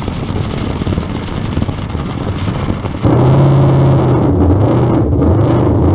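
Drag-race car engine: first a noisy rumble of track sound, then about three seconds in a sudden switch to a loud, close engine running, its pitch dropping and rising again as it is revved.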